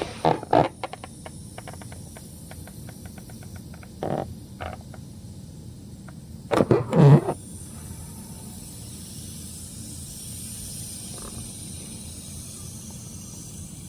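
Frogs calling: a run of rapid clicking pulses over a steady high hiss of night noise. A brief louder sound, like a voice, comes about seven seconds in.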